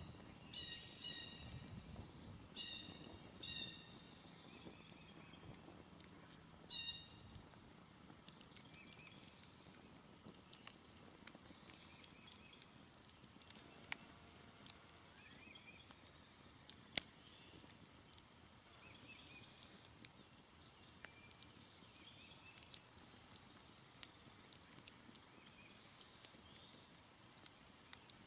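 Smoldering campfire crackling, with scattered sharp pops and one louder pop about halfway through. In the first several seconds a bird gives short harsh calls in little groups, and a faint low rumble fades away.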